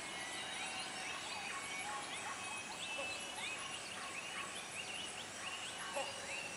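Dawn chorus of Bornean lowland rainforest: many overlapping calls, mostly short notes that rise quickly in pitch and some that then hold a steady note, repeated every second or so over a steady high insect hum.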